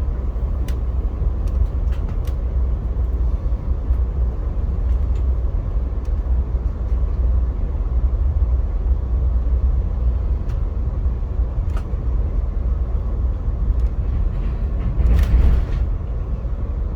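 Steady low rumble of a VIA Rail passenger train under way, heard from inside the car, with scattered light clicks and a brief louder rattle about fifteen seconds in.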